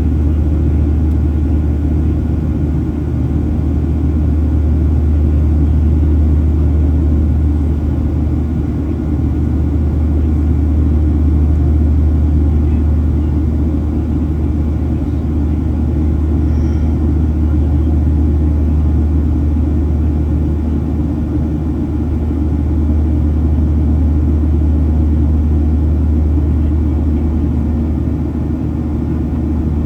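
Boeing 737-700's CFM56 turbofan engines and airflow heard inside the passenger cabin as a steady, loud, deep rumble that swells and eases slightly.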